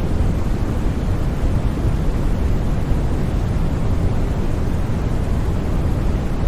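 Steady, unchanging white noise for sleep: a constant deep rush, heavier in the low end than hissy, with no breaks or changes.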